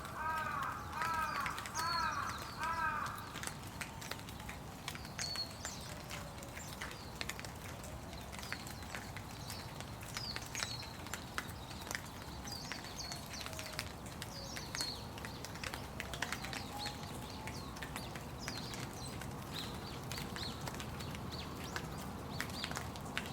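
Steady rain with scattered drop ticks, and small birds chirping now and then. A loud call repeats about six times in quick succession in the first three seconds.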